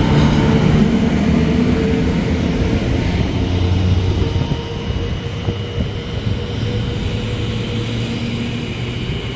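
A train running past at close range: a loud, steady rumble with a faint steady whine over it, easing off slightly from about five seconds in.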